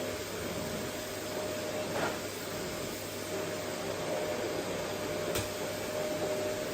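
Vacuum cleaner running: a steady rush of air with a constant motor whine, a brief swoop in pitch about two seconds in, and a single sharp click a little after five seconds.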